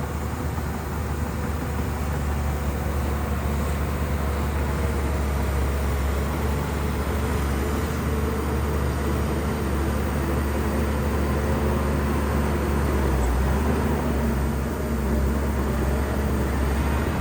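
Shantui bulldozer's diesel engine running steadily, deep and even throughout.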